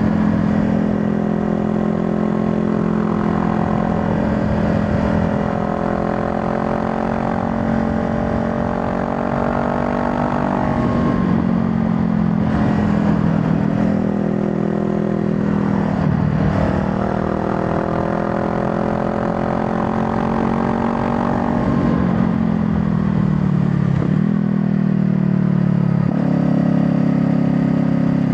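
Honda Rebel 500's parallel-twin engine under way, rising in pitch as it accelerates, with sudden drops in pitch at gear changes about eleven and sixteen seconds in. Near the end the revs fall off and it settles at a lower, steady pitch.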